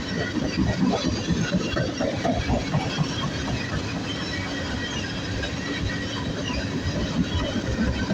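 Freight train rolling past, with steel wheels rumbling and clattering on the rails in a steady stream of irregular knocks.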